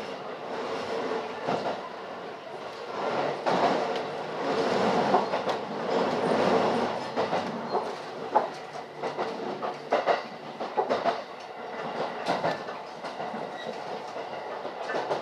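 Electric rapid train heard from inside the car: a steady rolling rumble, with the wheels clacking over rail joints and points at irregular intervals.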